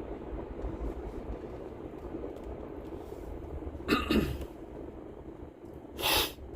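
Steady low road and engine rumble inside a moving car's cabin. About four seconds in, a man clears his throat, then around six seconds in coughs once with a short, harsh burst: he is congested.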